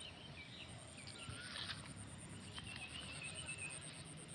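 Faint outdoor ambience of insects chirping in a steady, rapid, even pulse, with a few short bird chirps and one wavering bird call about a second long, roughly three seconds in.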